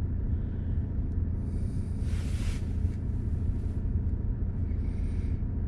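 Car engine idling steadily, a low even rumble, with a few brief hissy swells over it.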